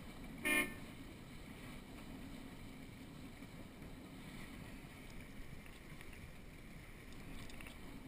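A single short horn blast, about a quarter of a second long, half a second in, over steady wind and water noise.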